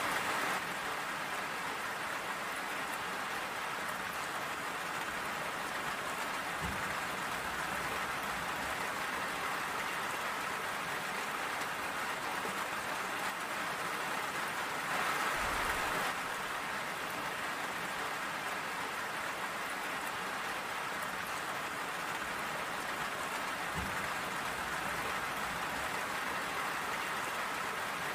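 Steady rain falling, an even hiss of drops, which swells briefly about halfway through. Two soft low thuds stand out, about a quarter and five-sixths of the way in.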